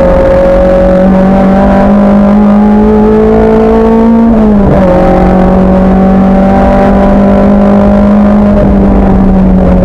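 Racing car engine under load, its note climbing slowly before dropping sharply at a gear change about halfway through, then holding roughly steady.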